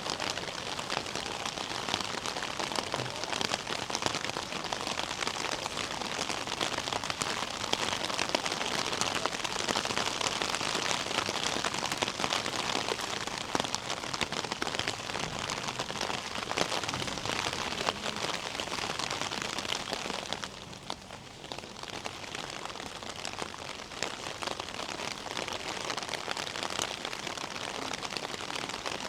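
Steady rain falling, a dense hiss of many small drop impacts. It thins and drops in level for a couple of seconds about two-thirds of the way in, then picks up again.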